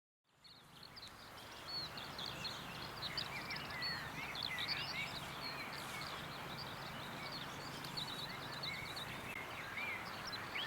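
Outdoor ambience of many small birds chirping and calling over a faint steady low hum, fading in about half a second in.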